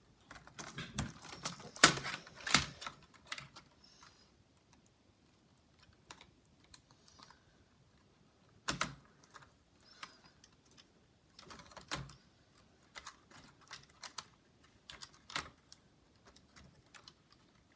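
Scattered plastic clicks and taps from a laptop's keyboard and case being handled while its ribbon cables are reconnected. A cluster of louder clicks comes about two seconds in, then sparser single clicks.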